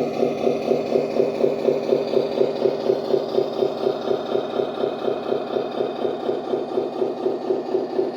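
Servonaut SM3 sound module in a 1:14 Tamiya Scania 770S model truck, playing a simulated Scania V8 idling through the model's small speaker, a steady even throb of about four to five pulses a second.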